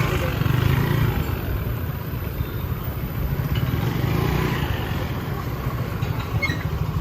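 Street traffic dominated by motorbikes, a steady low engine rumble of bikes passing, with faint voices mixed in.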